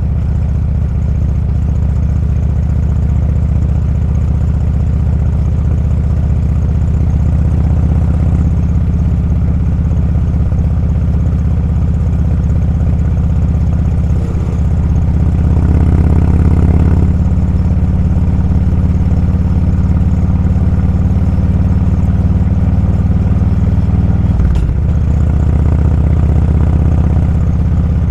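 Motorcycle engine running steadily under way. It grows louder for a couple of seconds about halfway through and dips briefly a few seconds before the end.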